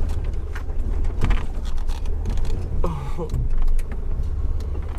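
Jeep engine running steadily at low revs while crawling a rocky trail, with scattered knocks and rattles.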